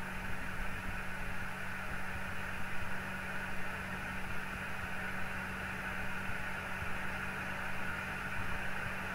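Microwave oven running: a steady hum with the whir of its fan, unchanging throughout.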